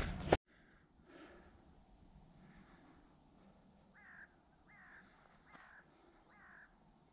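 Faint bird calls against a quiet outdoor background: a few scattered calls, then four short falling calls about a second apart in the second half.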